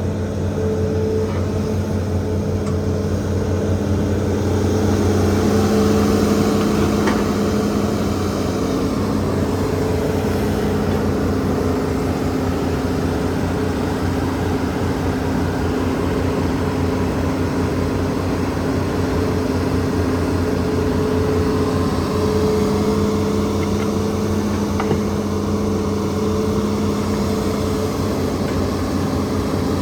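Hitachi ZAXIS200 excavator's diesel engine running steadily as it works, swelling louder twice, around five seconds in and again after about twenty seconds, as the machine comes under load, with a few faint knocks.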